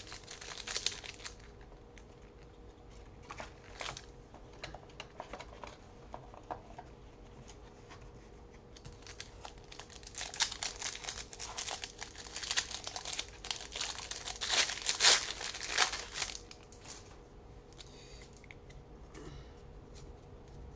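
Wrapper of a 1996-97 Topps Stadium Club basketball card pack being torn open and crinkled: scattered crackles at first, then a dense run of crinkling from about halfway through, loudest a little after that.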